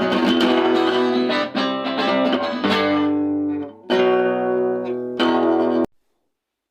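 Acoustic guitars strumming the closing chords of a song: a run of strummed chords, a short break, then two last chords. The final chord is cut off abruptly about six seconds in, leaving dead silence as the track ends.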